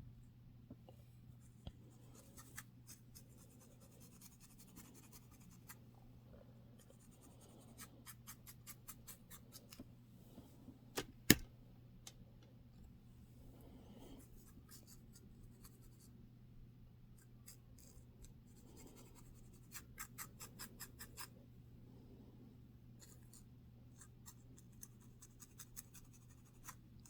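Close-up scratching of a dandruff-flaked scalp through the hair: runs of quick, dry scratching strokes, with one sharp click about eleven seconds in, over a steady low hum.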